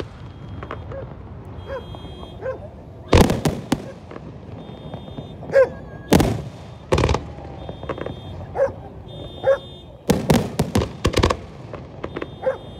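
Aerial fireworks shells bursting with sharp bangs: one about three seconds in, a few more around the middle, and a quick run of bangs about ten seconds in. Short, quieter, repeated pitched sounds come between the bangs.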